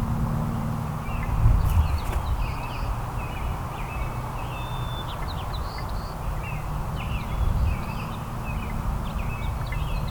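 Small songbirds chirping: many short, quick chirps and twitters at a feeder, over a steady low rumble that swells briefly about a second and a half in.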